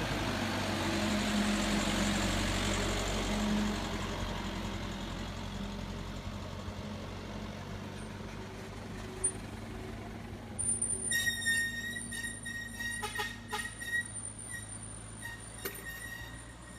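Heavy truck's diesel engine running as it passes, loudest in the first few seconds and then fading away. In the second half a faint, thin high-pitched tone with a few clicks comes in.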